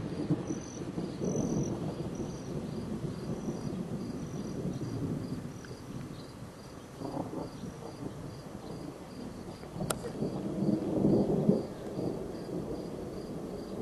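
Distant thunder rumbling from the storm that spawned the tornado, swelling and fading and loudest about ten to twelve seconds in. A single sharp click comes near the ten-second mark.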